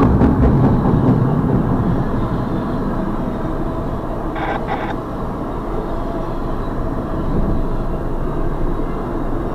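Double-stack intermodal freight train rolling past close by: a steady rumble of steel wheels on the rails, heaviest at the start, with a pair of brief clacks about halfway through.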